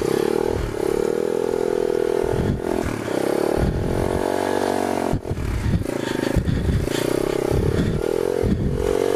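Small single-cylinder pit bike engine running under way, its revs rising and falling several times as it is ridden, with repeated low thumps.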